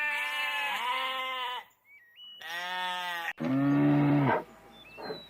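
Farm animal bleating: a long bleat with a wavering, quavering pitch, then a shorter bleat about two and a half seconds in. After a sudden cut, a lower, flatter call of about a second follows.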